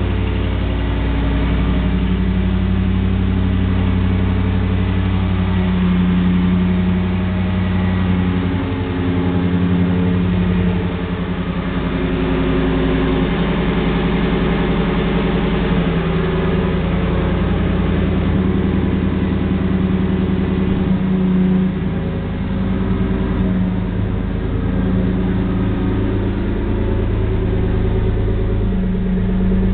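2008 Jeep Commander's 4.7 L V8 running through a loud aftermarket exhaust, mostly idling, its note rising and falling several times.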